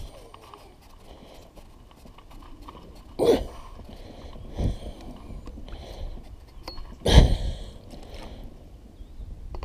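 Kayak paddle strokes in the water: three splashing swishes a couple of seconds apart, the third the loudest, over a faint steady background.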